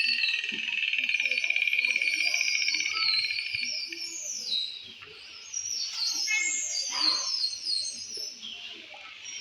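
Dolphins singing on cue with whistles and squeaks. A buzzing, pulsed call is held for about three seconds, followed by several falling whistles that get quieter about halfway through.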